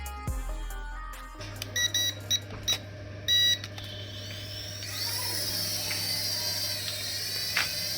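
A few short electronic beeps from a remote-control toy, then a high whine starting about five seconds in and holding steady with a slight wavering pitch.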